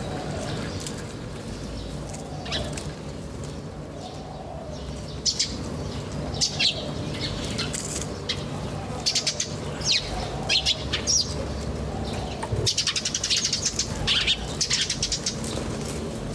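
Small birds chirping in many short, high calls that come thicker in the second half, over a steady low hum.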